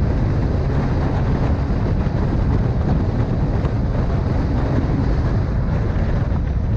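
Steady rumble of a moving vehicle with wind noise on the microphone, loud and even, with no distinct impact.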